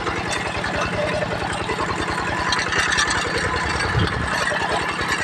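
Kubota diesel engine of a hand tractor running steadily with a rapid, even low beat. There is a brief low thump about four seconds in.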